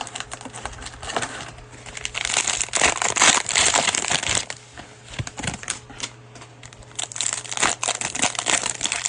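Cellophane wrapper of a Mosaic basketball cello pack crinkling and crackling as it is torn open and handled, with dense, irregular crackles that are heaviest a few seconds in.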